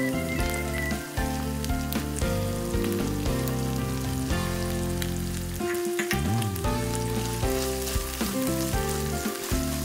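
Food frying in a pan, a steady sizzle with quick crackles, under background music.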